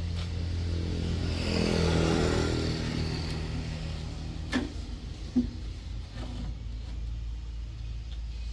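Heavy-duty truck engine running with a steady low hum, swelling and rising in pitch for a couple of seconds early on before settling back. Two sharp knocks about halfway through.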